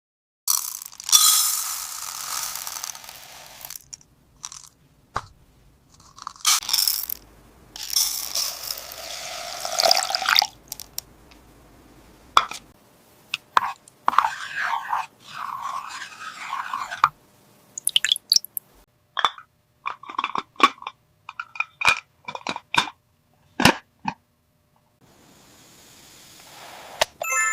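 Small plastic toy pieces and their packaging handled at close range: crinkling, crunching and scraping spells broken by sharp plastic clicks and taps.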